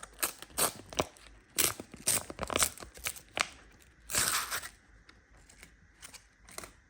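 Packaging being handled and torn open: a quick run of sharp crackles and clicks, then a longer tearing rasp about four seconds in, followed by a few scattered crinkles.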